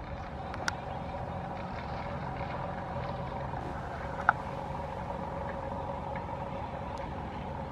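A distant train running steadily, heard as a low rumble with a steady hum. A short click sounds about four seconds in.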